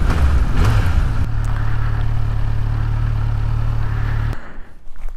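Kawasaki Z900 motorcycle's inline-four engine idling steadily after pulling over. It stops abruptly about four seconds in.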